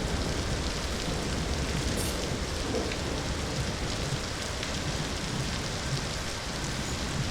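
Steady heavy rain falling, with a low rumble underneath that eases off over the first couple of seconds.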